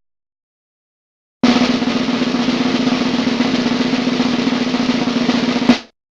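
Snare drum roll sound effect: a fast, even rattle starting about a second and a half in, lasting about four seconds and ending on one sharp, loud hit.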